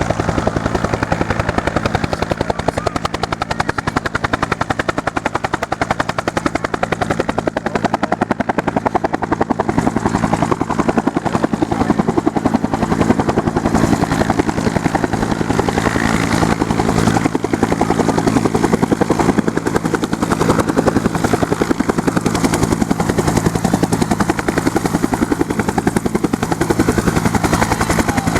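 UH-1 Huey helicopter running steadily, its rotor beating rapidly over a constant engine hum.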